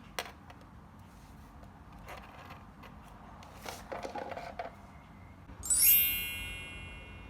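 A few soft clicks and rustles, then a bright ringing chime strikes near the end and dies away over a second or so.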